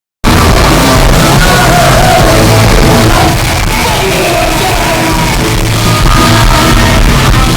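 A live punk band plays loud, with shouted vocals over the band, heard through a phone's microphone in a hall. The sound cuts out for a split second at the very start, then the band runs on.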